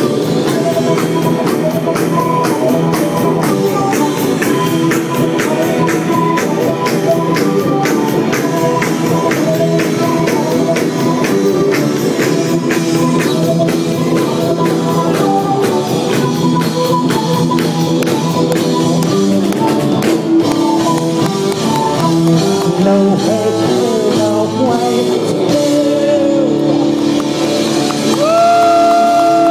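Live rock band playing an instrumental passage over a steady drum beat. About two-thirds through, the drumming thins out, and near the end a held note bends up and falls away.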